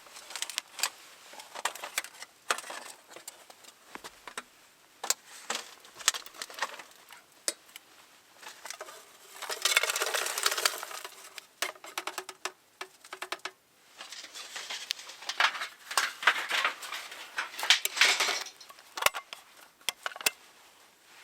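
Camping gear being packed up by hand: irregular clinks, knocks and clatter of pots, utensils and equipment. Two longer noisy stretches of handling, one near the middle and another a few seconds later.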